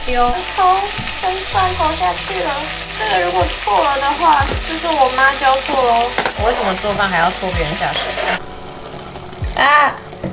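Chicken thighs frying in hot oil in a pan, sizzling loudly, with short wavering pitched squeals over the sizzle. The sizzle falls away about eight seconds in.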